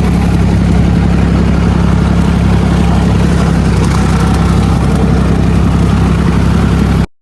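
Massey Ferguson 135 tractor's three-cylinder diesel engine running steadily at a constant speed. The sound cuts off abruptly near the end.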